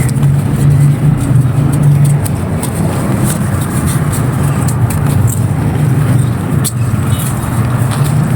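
Dry, dusty clay crumbling, with many small crisp crackles scattered throughout, over a steady low hum.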